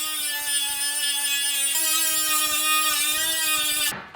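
Die grinder running at speed, grinding on the steel exhaust pipe to correct a tack weld: a steady high whine with hiss. The pitch shifts slightly under load partway through, and the whine cuts off just before the end.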